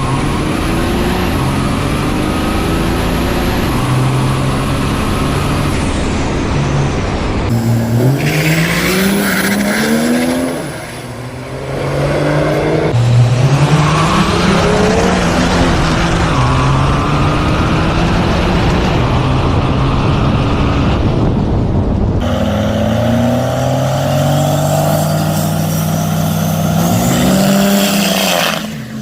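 Diesel pickup truck engines at full throttle on a drag strip, the pitch climbing and dropping again and again as the trucks pull up through their gears, in several clips cut together.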